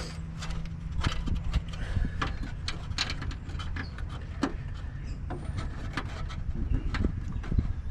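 Irregular light clicks and taps from hands handling a car running-light bulb and its plastic socket and housing, over a steady low hum.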